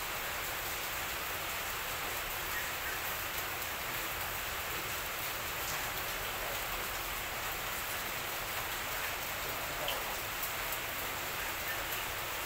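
Rain falling steadily: an even hiss with a few faint scattered ticks.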